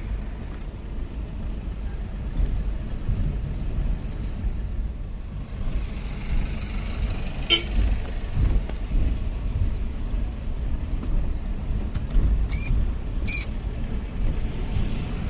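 City street traffic rumbling steadily, with short high-pitched horn toots: one about halfway through and two quick ones near the end.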